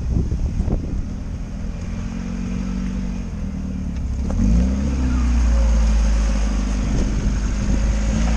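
Lada Niva's engine running under load off-road. The revs rise about halfway through and again near the end, with a few short knocks near the start and once more later.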